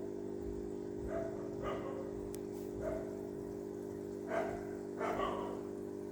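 A dog barking several times with short barks, over a steady low hum.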